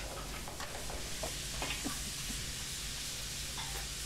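Food sizzling as it fries in hot oil in a pan, with a steady hiss and a few short clicks in the middle.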